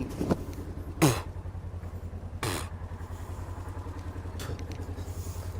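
An engine running at a steady idle, a low, evenly pulsing throb, with two brief higher sounds about a second and two and a half seconds in.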